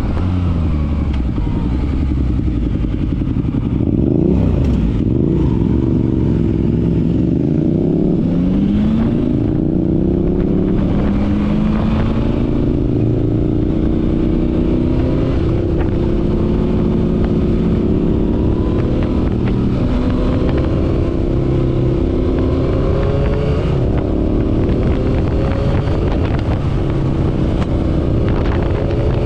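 Motorcycle engine under way: its pitch wavers for the first few seconds, then rises steadily as it accelerates from about eight seconds in and settles into a steady cruise with small rises and dips.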